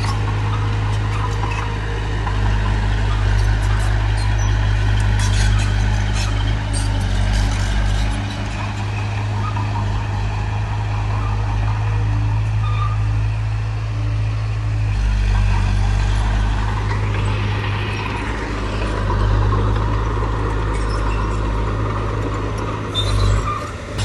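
Heavy diesel bulldozer engine running under load with a continuous low drone. Its note shifts about halfway through, and scattered short metallic clanks come from the working machine.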